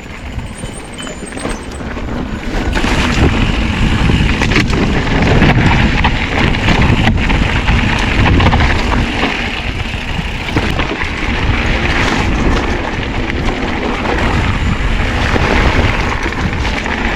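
Mountain bike riding on a dirt trail: loud wind rumble on the action camera's microphone mixed with tyre noise, with scattered sharp knocks as the bike jolts over bumps. It gets louder about two to three seconds in.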